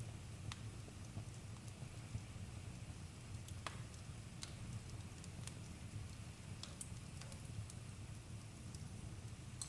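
Wood campfire crackling: irregular sharp pops and snaps over a low, steady rumble of the burning fire.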